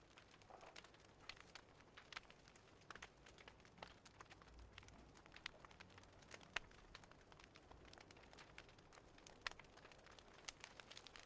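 Fireplace crackling faintly, with irregular small pops and snaps.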